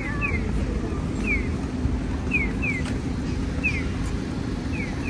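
A bird repeatedly calls with short falling chirps, mostly in pairs, about once a second, over a steady low outdoor rumble.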